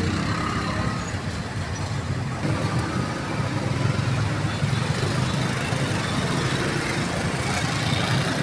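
Street traffic with a steady low rumble of passing vehicles.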